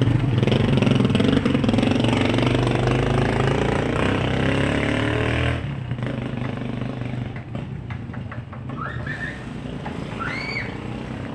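Motorcycle tricycle engine running close by, its pitch climbing steadily as it accelerates. It drops away sharply about halfway through, leaving quieter street noise with two short high chirps near the end.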